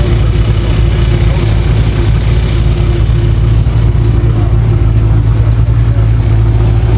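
Loud, steady running of a boat's LS V8 engine, held at an even speed with no change in pitch.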